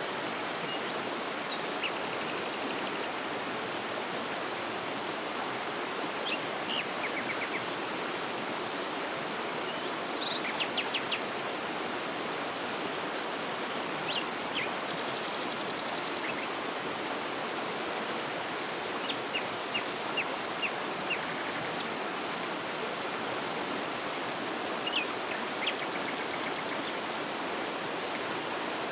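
A waterfall's steady falling water, with small birds chirping over it. Several series of short high chirps and a few fast, buzzy high trills come every few seconds.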